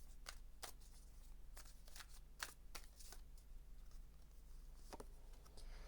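Tarot cards being shuffled and handled in the hands: a run of faint, irregular card flicks and clicks.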